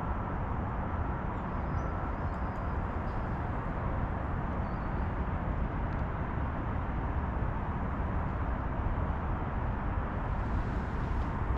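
Steady outdoor background rumble, heaviest in the low end, with no distinct events.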